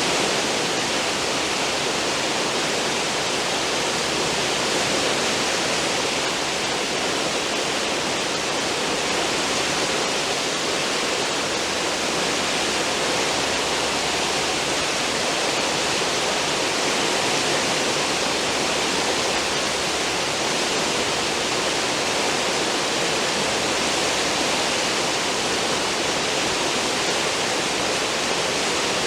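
Cruise ship's stern wake: churning white water rushing steadily and evenly, with no breaks.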